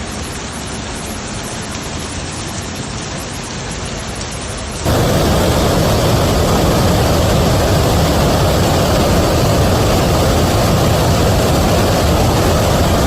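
Steady hiss of a heavy downpour. About five seconds in it cuts abruptly to a louder, fuller rushing of rain and water.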